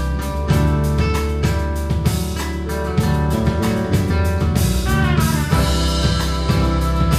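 A live band playing, with drums keeping a steady beat under sustained guitar tones. About five seconds in, a note slides down in pitch.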